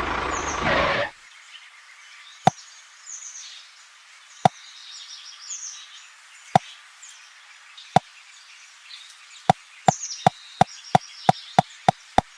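Sharp single knocks, about every two seconds at first and then quickening near the end to about three a second, over faint bird chirping.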